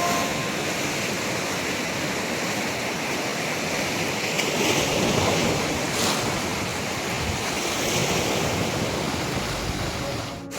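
Sea surf washing onto a beach: a steady rushing hiss that slowly swells and eases, with wind on the microphone.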